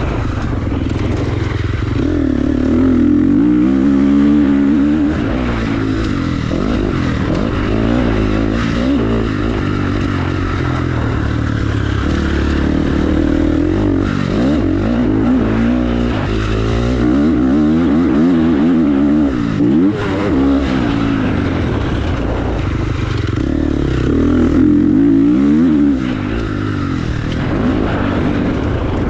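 Dirt bike engine revving up and down over and over, its pitch climbing and dropping in repeated surges as it is ridden, loudest about four seconds in, around eighteen seconds and around twenty-five seconds.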